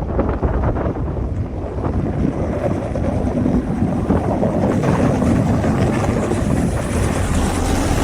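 Strong blizzard wind buffeting the microphone: a loud, rough, steady rushing noise that gets hissier after about five seconds.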